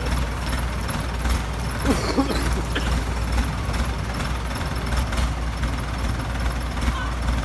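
Excavator diesel engine running steadily with a constant low hum.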